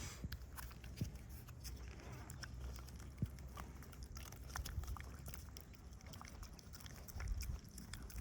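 Dogs feeding: a steady run of small, irregular wet clicks and chewing smacks over a low rumble.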